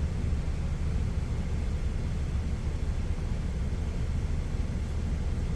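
Steady low rumble of an idling semi-truck diesel engine.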